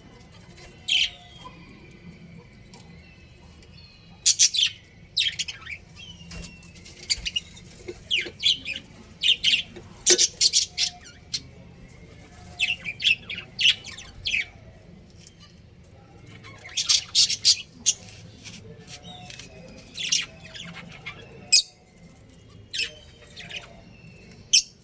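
A colony of budgerigars chirping and squawking: clusters of short, sharp high calls every few seconds, with softer chatter between.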